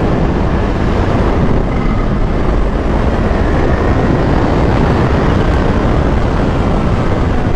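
Kawasaki H2 superbike riding at speed: steady wind rush over the microphone with the supercharged inline-four engine running underneath.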